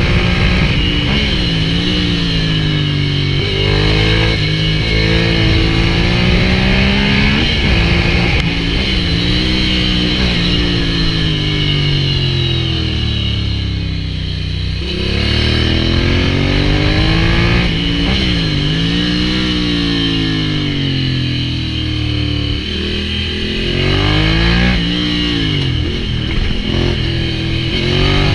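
Ducati Hypermotard 796's air-cooled L-twin breathing through an SC-Project full exhaust, its revs climbing and dropping again and again. There is a deeper dip in the middle before it pulls up again.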